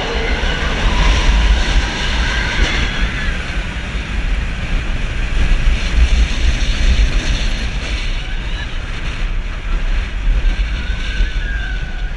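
Roller coaster train running along its steel track, a loud continuous rumble with rattling and rushing air over the microphone.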